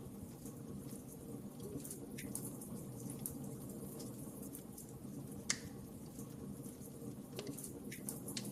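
Wood fire in a fireplace crackling, with scattered small pops over a steady low rumble and one sharp, louder pop about five and a half seconds in.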